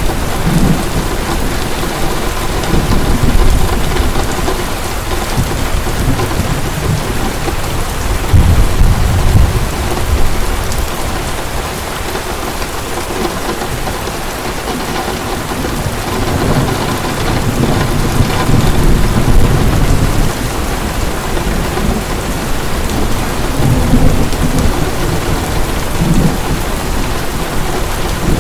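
Heavy, steady rain with a rolling rumble of thunder that swells and fades several times.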